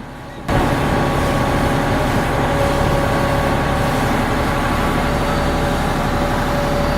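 River shuttle boat's engine running steadily under way: a constant drone with a rushing noise of water and wind. It cuts in suddenly about half a second in.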